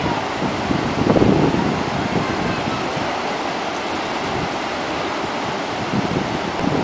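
Sea surf washing continuously on the shore, with a wave breaking more loudly about a second in and another near the end.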